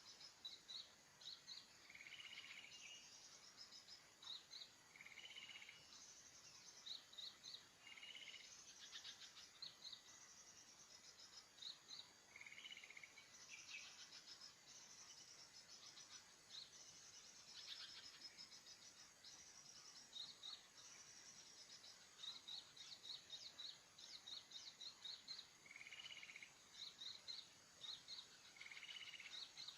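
Small birds calling: short, high chirps repeated all through, often in quick pairs or runs, with a lower, fuller call every few seconds, faint against a light insect hum.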